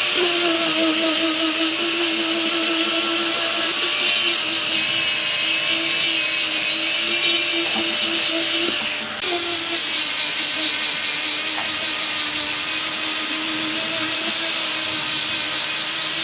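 A handheld power tool running steadily on wood, its motor tone holding level under a strong hiss. It eases off briefly about nine seconds in, then runs on.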